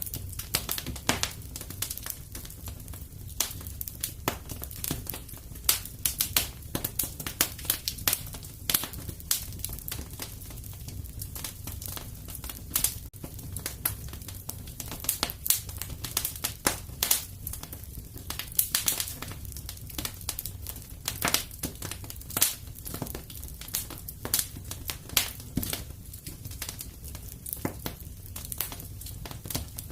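Wood fire burning in a fireplace: many irregular sharp crackles and pops, some clustered in quick runs, over a steady low rumble of the flames.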